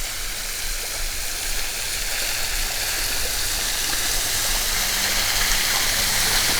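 Small waterfall with a light flow, its water splashing steadily, growing gradually louder.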